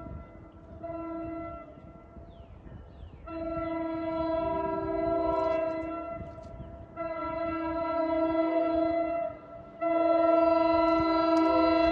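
NJ Transit North Jersey Coast Line train sounding its horn: a short blast, then three long blasts with brief gaps between them, over a low rumble from the train.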